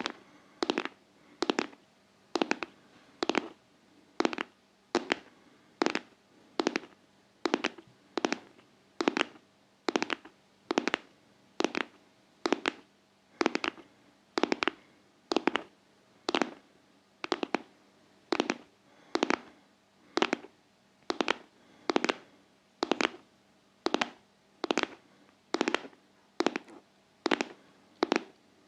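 Close-miked ASMR tapping in quick flurries of several taps. A flurry comes about every 0.85 seconds, in a steady heartbeat-like rhythm.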